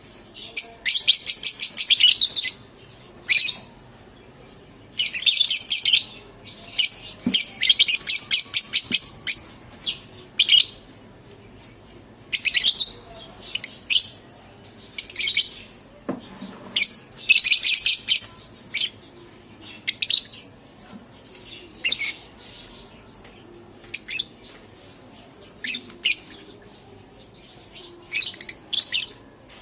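Lovebirds chattering in repeated high-pitched bursts of rapid shrill calls, some bursts lasting a second or two, with short gaps between.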